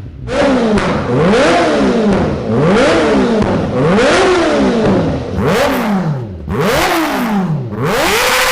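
Kawasaki Ninja inline-four sportbike engine revved repeatedly, its pitch climbing and falling about once a second. The sound breaks off abruptly a couple of times, and near the end the engine holds a steady high rev.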